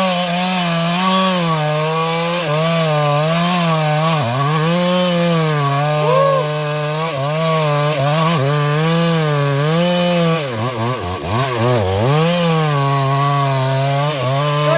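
Stihl MS382 two-stroke chainsaw cutting into a large sengon trunk. Its engine pitch sags and recovers about once a second as the chain bites, dipping deeper several times about two-thirds of the way through.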